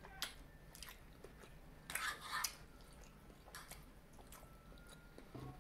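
Close-up eating sounds from a lo mein and shrimp-with-broccoli meal: chewing with a wet, squishy patch about two seconds in, and scattered sharp clicks of a metal fork against the plate.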